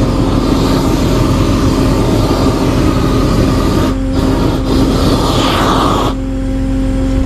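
Propane flamethrower burning on an icy road, a steady rushing noise that drops out briefly twice and stops abruptly about six seconds in. Under it runs a steady engine hum.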